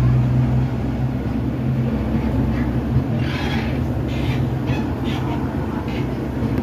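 A train running, with a steady low drone and rail noise. A few short hissing sounds come in the second half.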